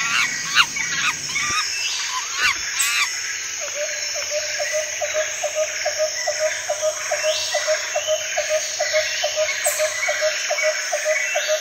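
Jungle ambience sound effect. Several chirping bird calls sound in the first few seconds, then a pulsing animal call repeats about four times a second over a steady background hiss.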